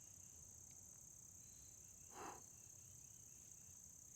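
Faint, steady insect chorus: a continuous high-pitched trill. There is a brief soft noise about two seconds in.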